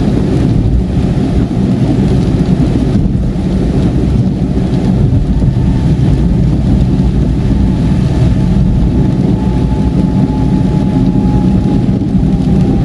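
Steady car cabin noise on a highway in heavy rain: deep road and tyre rumble with rain on the car. A faint thin tone joins about halfway through.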